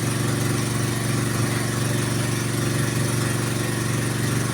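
Small engine of a well-drilling machine running steadily at a constant speed.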